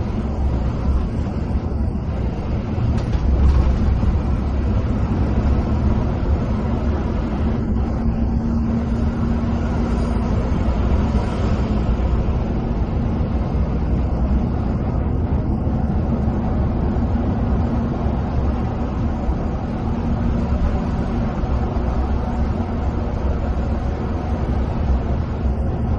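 Inside a moving coach bus: the engine's low, steady drone with tyre and road noise at cruising speed.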